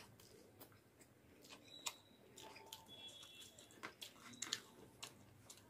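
Faint chewing of a mouthful of rice and masaura curry: soft wet mouth clicks and smacks at irregular intervals.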